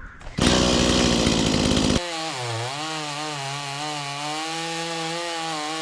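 Stihl chainsaw cutting into oak at full throttle, a loud dense rasp for the first couple of seconds. It then changes abruptly to the saw's engine note alone, which dips briefly and then runs steadily.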